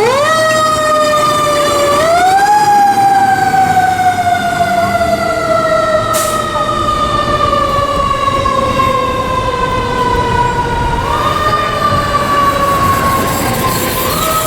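Fire engine siren wailing on a 2018 Spartan Metro Star pumper responding to a call. It rises quickly in pitch four times: at the start, about two seconds in, near eleven seconds and near the end. After each rise it winds slowly down, the longest fall lasting about nine seconds, over the truck's engine rumble.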